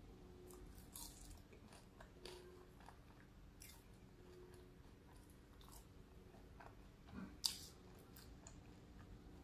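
Faint mouth sounds of a person eating French fries: soft chewing with scattered small clicks, and one sharper click near the end.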